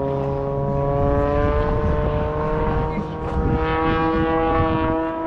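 Aircraft engine droning as it passes, its tone slowly falling in pitch over a low rumble.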